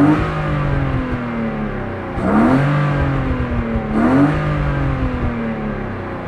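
BMW 320i's M50 2.0-litre inline-six being revved in quick throttle blips. The revs are just falling as it begins, then shoot up sharply twice more, about two and four seconds in, each time sinking slowly back toward idle.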